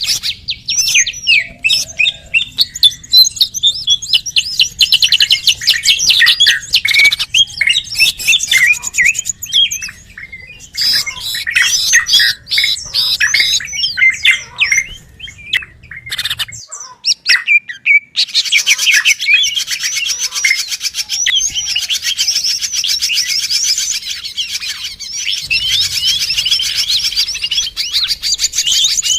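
Small songbirds twittering in rapid, high-pitched chirps and trills, dense and overlapping, with a short lull a little past halfway. It is a bird-lure call recording, played to draw wild birds in.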